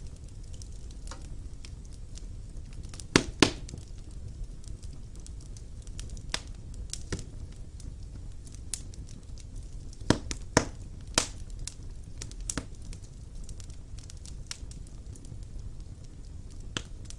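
Fire crackling in a fireplace: a steady low rumble of flames with scattered sharp pops. The loudest pops come as two close together about three seconds in and three in quick succession about ten seconds in.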